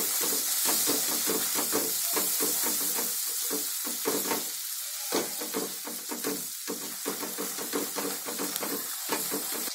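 Ginger and green chilli spice paste frying in mustard oil in a steel kadai. It sizzles steadily while a spatula stirs and scrapes against the pan.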